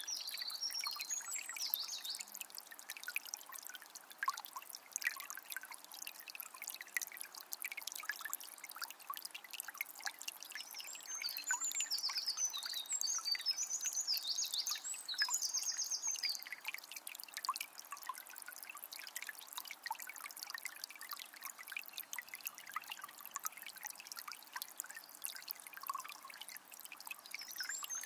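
Forest river trickling and splashing steadily, with bursts of bird song at the start, again in the middle, and near the end.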